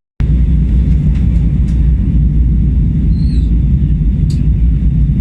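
Steady low rumble of engine and airflow noise inside an Airbus A321's passenger cabin, with a faint click about four seconds in.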